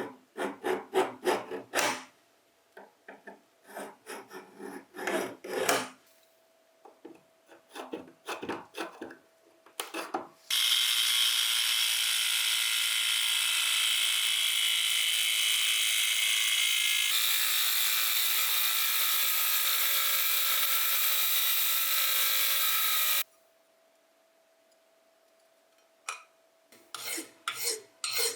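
Rapid back-and-forth scrubbing strokes on a rusted part, in three runs of a few seconds each. Then a steady hiss for about twelve seconds that cuts off suddenly, and near the end the scrubbing starts again.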